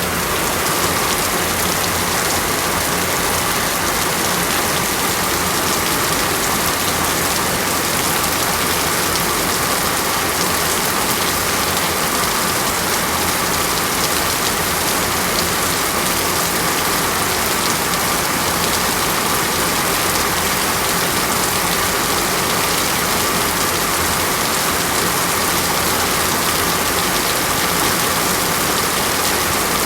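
Steady, unbroken rain falling, an even hiss of many drops.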